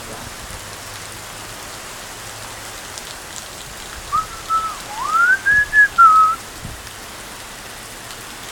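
Heavy rain falling steadily. About halfway through, a short whistled phrase of several clear notes cuts across it, the middle note gliding up and back down.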